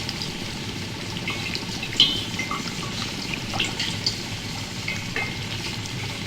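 Water trickling steadily, with scattered drips and small splashes; one sharper drip about two seconds in.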